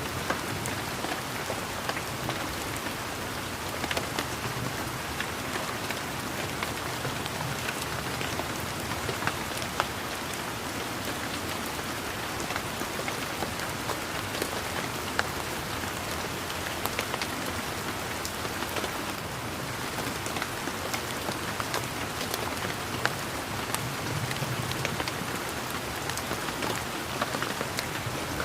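Steady rain falling on leaves and garden surfaces, an even patter with many distinct drop ticks scattered through it.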